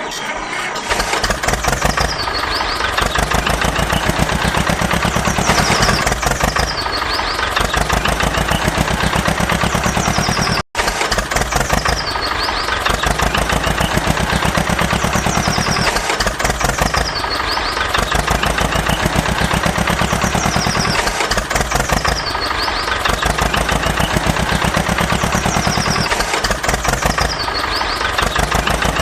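Tractor engine running steadily with a rapid chugging pulse, the same pattern recurring about every two seconds, with a momentary cut-out about eleven seconds in.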